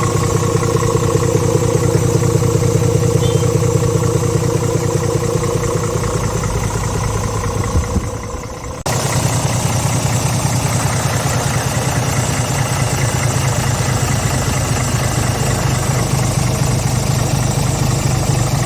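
Scania R410 truck's 13-litre inline-six diesel idling steadily. The sound dips and changes abruptly about nine seconds in, then the idle carries on.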